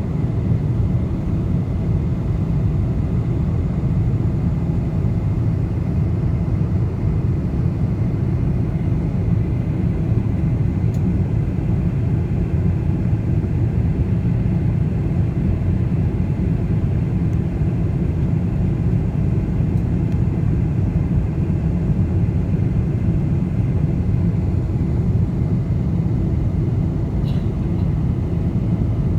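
Boeing 747 cabin noise: a steady low rumble of the engines and rushing air, heard from inside the passenger cabin, with a faint steady high tone above it.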